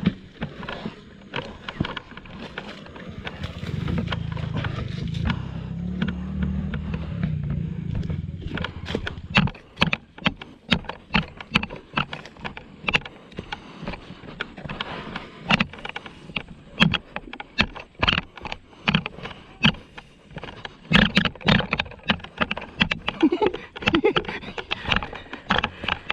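A small dirt bike's engine runs for about the first nine seconds, then stops. After that comes a long run of irregular knocks and scrapes.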